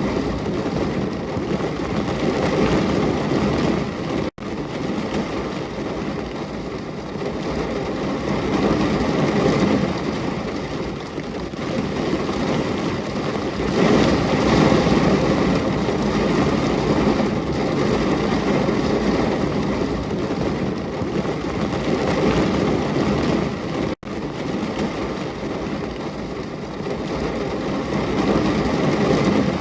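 Steady, heavy rain: a dense hiss of falling drops that swells and eases a little, with a split-second dropout twice, about four seconds in and again about two-thirds of the way through.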